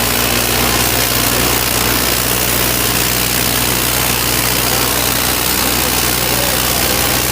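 Diesel tractor engine running at a steady speed, with a constant hiss over it.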